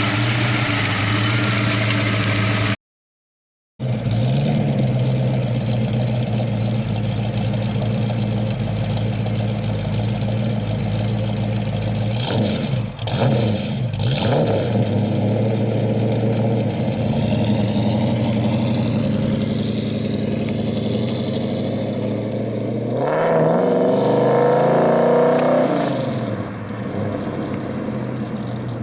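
1965 Ford Mustang's 302 cubic-inch V8 running steadily. The revs change quickly a few times around the middle and climb and fall again, louder, about two thirds of the way through.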